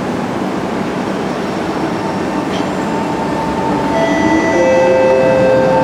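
Siemens C651 metro train running, with steady rumbling noise. About two seconds in, the whine of its traction equipment sets in as several steady tones, with one tone rising in pitch, and the sound grows slightly louder.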